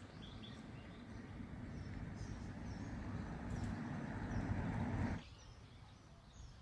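Small birds chirping over a low rushing noise that grows steadily louder and then cuts off abruptly about five seconds in.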